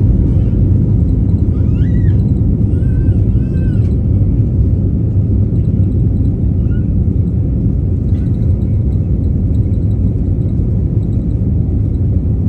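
Loud, steady low rumble of a jet airliner heard from inside the cabin during take-off: engines at take-off power and the airframe shaking on the runway.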